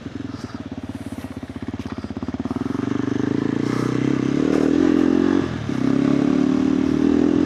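KTM 390 Adventure R's single-cylinder engine through a Norifumi Whoops stainless slip-on exhaust, lugging at low revs with distinct slow pulses, then getting louder about three seconds in as the throttle opens, with a brief drop in throttle shortly after.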